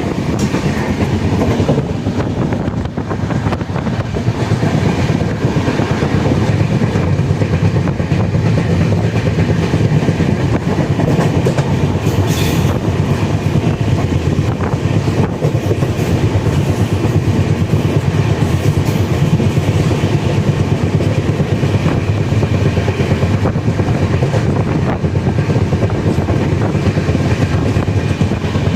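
Moving train heard from on board: a steady low rumble with wheels clattering over the rails.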